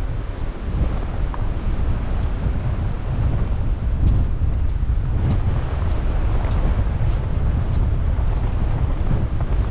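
Strong storm wind buffeting the microphone, a loud steady low rumble without a break.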